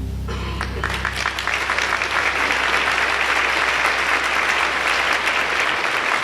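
Audience applauding, starting just after a piece ends and building to steady, dense clapping. A last low note dies away under it in the first couple of seconds.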